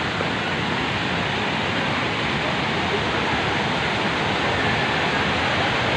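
Vazhachal Falls' cascading water making a steady, loud rushing noise.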